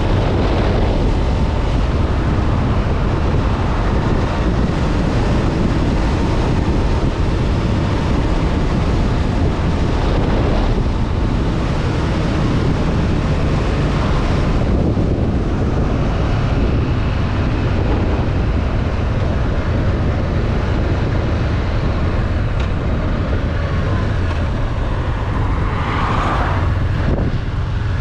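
Honda CB500F's parallel-twin engine running at riding speed under heavy wind noise on the microphone, with a few brief swells in the noise.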